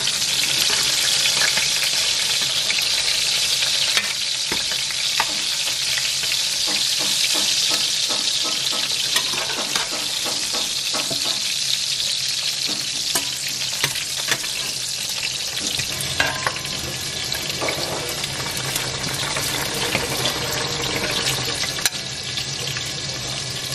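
Chicken pieces sizzling as they fry in hot oil in a pan, a steady hiss with occasional clinks of a metal slotted spoon against the pan.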